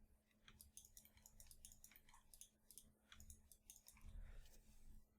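Faint, scattered clicks of a computer mouse and keyboard being worked at a desk, with a soft low thump about four seconds in.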